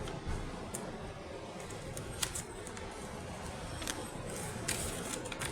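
Steady low background rumble with a few short, sharp clicks scattered through it.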